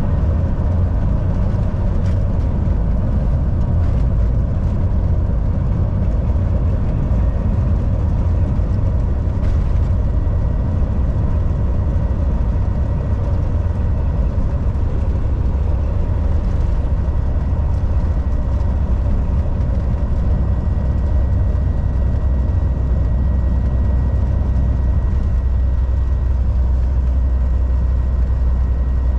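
Volvo VNL 760 semi truck cruising at highway speed: a steady, deep engine drone with road and tyre noise, and a faint steady whine above it.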